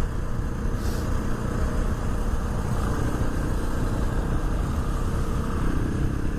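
Honda XR650R's single-cylinder four-stroke engine running steadily, with a brief hiss about a second in.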